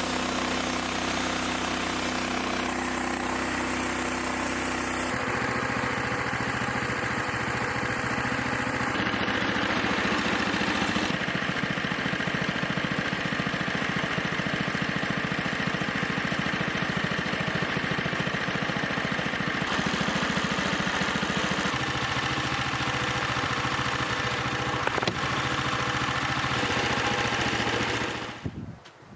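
An engine-driven machine running steadily, in several stretches that change abruptly from one to the next, then cutting off shortly before the end.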